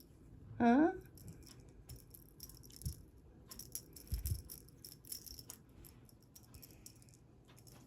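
A cat's play toy rattling in several short bursts of quick, light, high shakes, with a couple of soft low thumps in the middle.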